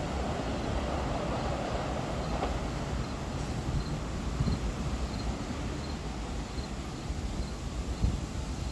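Metro-North electric commuter train running past, its steady rumble easing as it moves away, with wind on the microphone.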